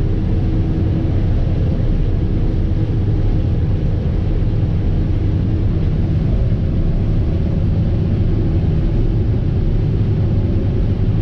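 Fendt IDEAL 7 combine harvester running steadily under load while harvesting wheat: an even, low drone of engine and threshing machinery with a faint steady hum.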